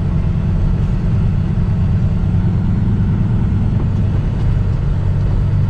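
Semi truck's diesel engine running with a steady low rumble, settling into an even idle about four seconds in.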